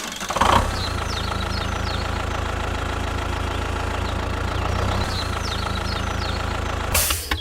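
A small engine running steadily at an even idle, with a brief hiss near the end before it cuts off.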